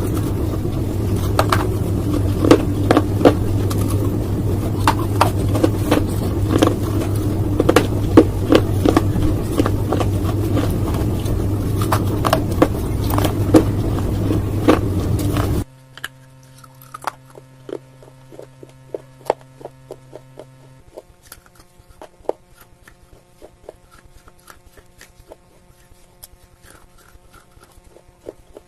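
Close-miked crunching of dry clay being bitten and chewed, many sharp crunches in quick succession over a steady low hum. About halfway the sound cuts to a much quieter recording of fainter, scattered crunches.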